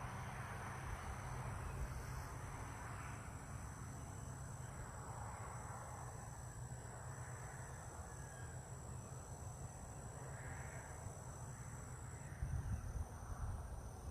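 Outdoor natural ambience: wind rumbling on the microphone, gustier near the end, with a few faint, distant bird calls and a steady high insect-like drone.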